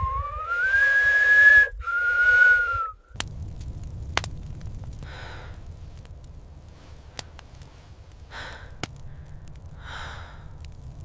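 A horse whinnying: a long, loud call that rises in pitch, breaks once and falls away, ending about three seconds in. After it comes a quieter low rumble with scattered clicks and a few soft puffs of breath or shuffling.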